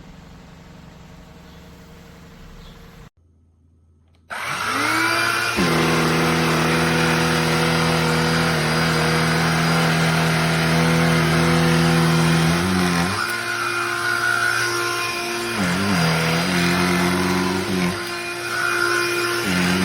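Cordless BLACK+DECKER Dustbuster handheld vacuum motor switching on about four seconds in, after a brief quiet, and rising to a steady whine. Its pitch sags briefly three times.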